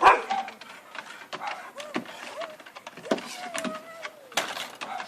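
A dog whining and whimpering in thin, wavering, high cries, one long drawn-out whine about three seconds in, with scattered small clicks.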